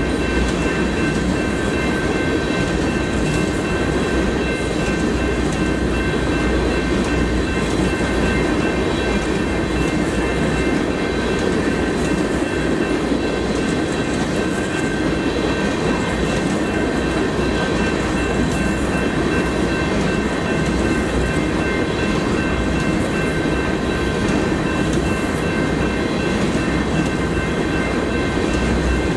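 Freight train of flatcars carrying wind turbine blades rolling steadily past: the continuous running noise of steel wheels on the rails, with steady high-pitched tones over it.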